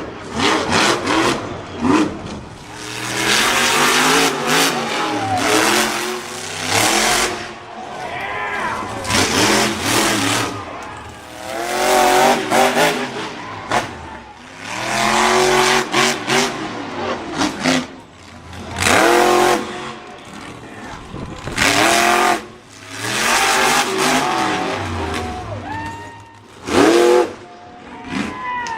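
Monster truck engine being revved hard again and again, the pitch sweeping up and falling back in loud surges every couple of seconds.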